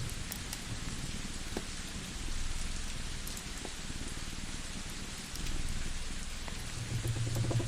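Layered cabin ambience: a steady rain-like hiss with scattered sharp crackles of a wood fire, over a low rumble that swells near the end.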